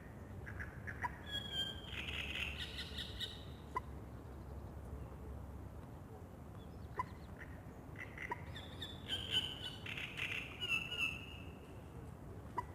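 Songbird singing two short phrases about six seconds apart, with single sharp chip calls scattered between them, over a steady low background hum.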